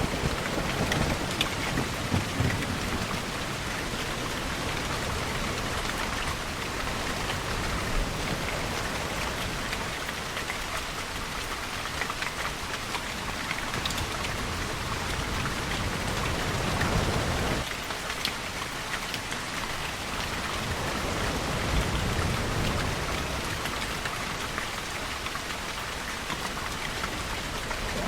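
Steady rainfall with low rumbles of distant thunder swelling up three times: near the start, in a long build that breaks off suddenly about 17 seconds in, and again around 22 seconds.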